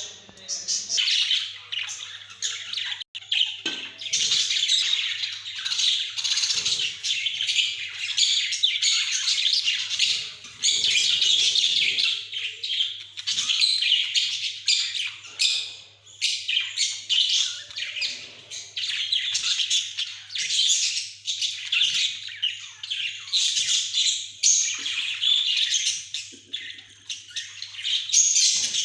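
Pet budgerigars chattering and squawking continuously, a dense stream of short chirps and warbles.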